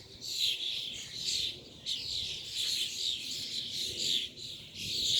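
A flock of small wild birds chirping and calling over one another, a dense continuous chatter of many voices.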